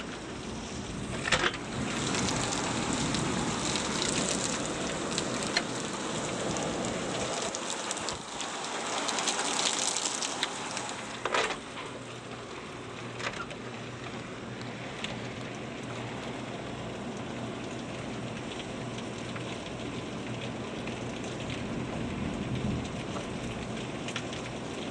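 Heavy rain from a thunderstorm pouring steadily, swelling and easing. A few sharp taps stand out, one near the start and a couple more in the first half.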